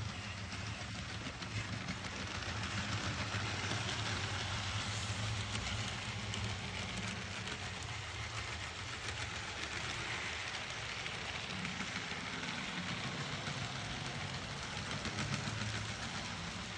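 Model Siemens Taurus 1116 electric locomotive and coaches running on track: a steady low motor hum with rolling wheel-on-rail noise. The hum fades about halfway through while the rolling noise grows, then the hum comes back.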